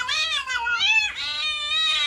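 A cat yowling loudly in long, wavering calls that rise and fall in pitch, two calls running almost into each other.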